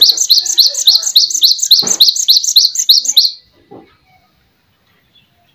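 Small songbird singing a fast run of repeated high chirps, about six a second, that stops abruptly after about three seconds.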